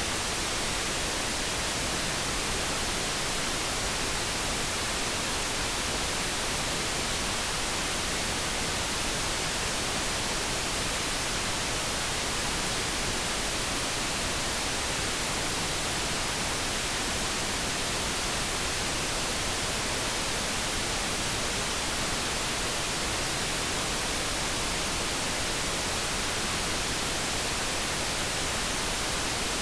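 Steady light brown noise: an even, unchanging hiss with no tone or event standing out.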